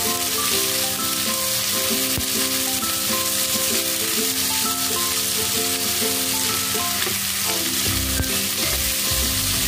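Squid, shallots and chilies sizzling in hot oil in a wok as they are stirred and tossed with a spatula, a steady frying hiss.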